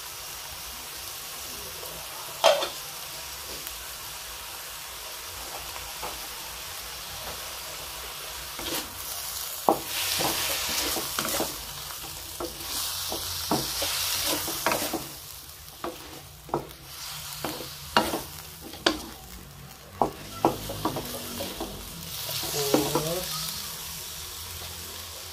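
Chicken livers and shrimp sizzling in a wok while a wooden spatula stirs and scrapes them, with a sharp knock about two and a half seconds in and many short knocks of the spatula against the pan in the second half.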